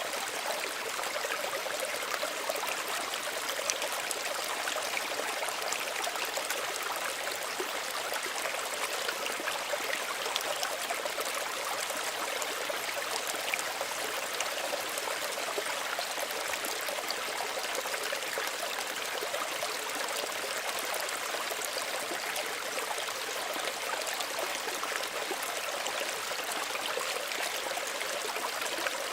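Small stream of running water, flowing and trickling steadily with a fine splashing texture.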